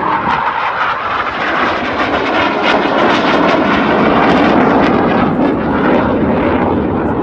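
Military jet aircraft flying a display, its engine noise a loud, steady roar with a crackling edge.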